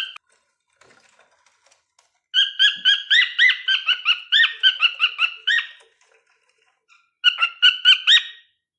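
Cockatiel whistling a quick string of short chirpy notes for about three seconds, a pause, then a shorter string near the end.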